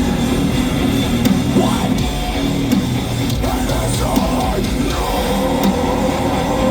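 Metalcore band playing live: heavy distorted guitars and a drum kit, loud and dense throughout.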